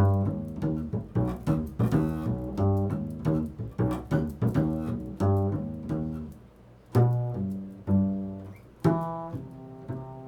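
Improvised solo music on a low-pitched plucked string instrument: a quick run of plucked notes, about two or three a second, slowing about two-thirds of the way through to single notes about a second apart. The last note is left ringing.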